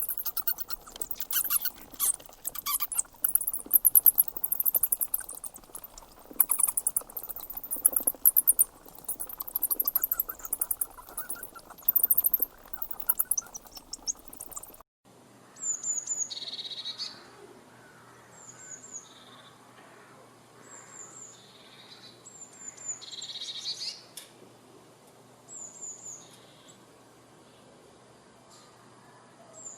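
Loud bursts of rapid, high trilling and chirring for about the first half. After a cut, a small bird gives short, high, falling calls, repeated every two to three seconds.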